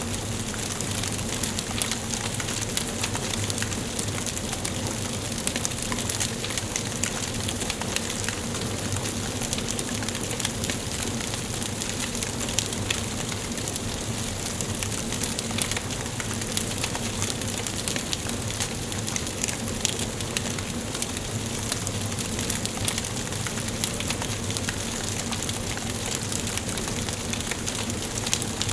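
Wood fire burning in a fireplace: a steady soft hiss with frequent small crackles and pops throughout.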